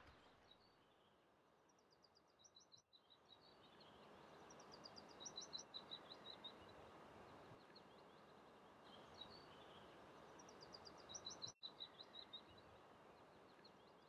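Faint birdsong over a soft outdoor hiss. A small songbird repeats a short, quick phrase of rapid high notes several times.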